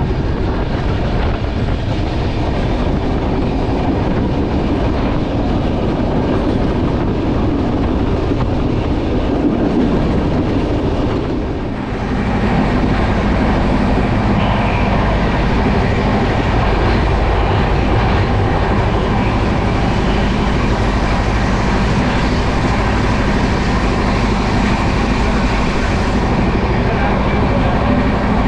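Passenger train running at speed: a steady rumble of wheels on the rails, which grows suddenly louder and brighter about twelve seconds in.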